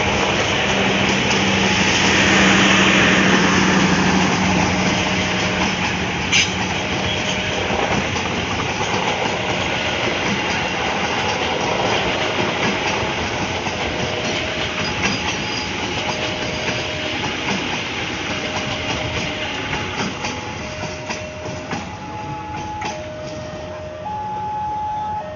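A train rolling past with a steady rumble and its wheels clicking over rail joints, the locomotive's engine tone strongest in the first few seconds and fading.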